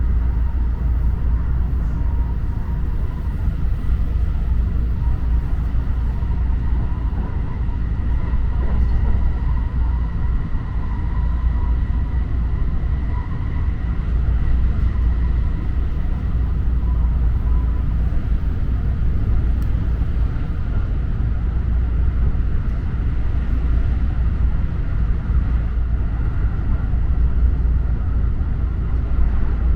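JR Super Rapid electric train running at speed, heard from inside the carriage: a steady, heavy rumble with a faint, even whine over it.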